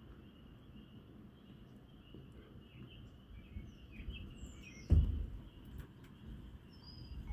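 Birds chirping over a steady low wind rumble and a thin insect-like hum. About five seconds in, a sudden low thump of wind buffets the microphone and dies away within a second.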